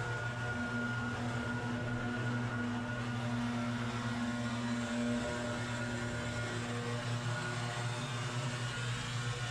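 Engine running steadily at constant speed, a continuous even drone.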